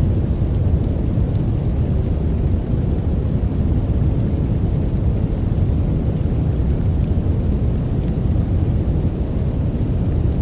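Steady, unchanging noise for sleep, deep and heavy in the bass with little treble, and no separate sounds in it.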